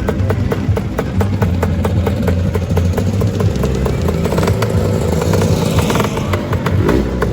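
Two-stroke Lambretta scooter engines running, with one scooter passing close by about halfway through.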